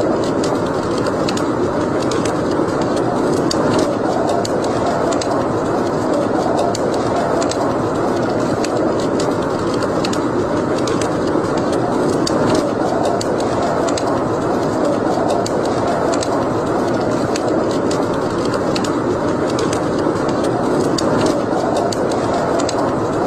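Wood fire burning in a fireplace: a steady rushing sound with frequent small crackles and pops scattered through it.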